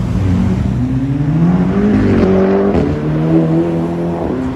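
A car engine accelerating hard through the gears. Its pitch climbs, drops back about two seconds in and again nearly a second later, then climbs more slowly before easing off near the end.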